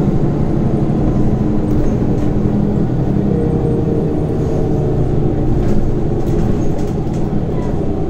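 Scania Omnicity city bus's diesel engine and ZF automatic drivetrain running steadily, heard from inside the cabin, with a few light rattles.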